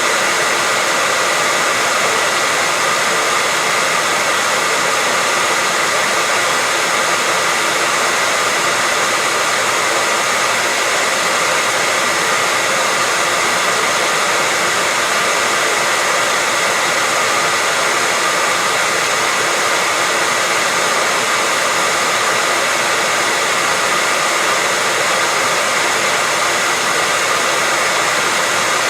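Hair dryer running steadily: a constant rush of blown air with a faint steady whine, played as white noise to lull a baby to sleep.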